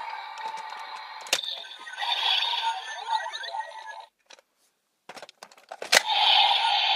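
DX Grease Blizzard Knuckle toy playing its electronic sound effects through its small speaker, with crackling, ice-breaking effects over a steady tone. It stops for about a second and a half with a few plastic clicks, then a sharp click about six seconds in and the toy's sound starts again, louder.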